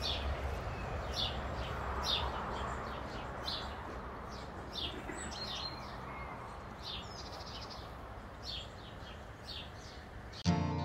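A bird chirping over and over, short high calls about once a second, over steady outdoor background noise. Guitar music cuts in suddenly at the very end.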